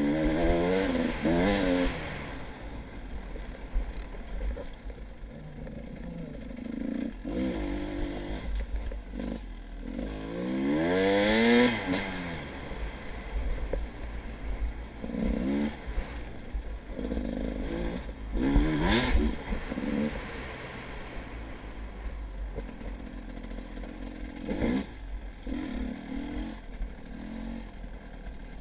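An engine revving up and down in several bursts, loudest about eleven seconds in and again around nineteen seconds, over a steady low rumble.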